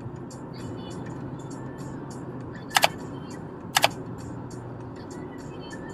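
Car cabin with a steady engine and road hum under music playing with a light beat. Two sharp double clicks come about a second apart near the middle and are the loudest sounds.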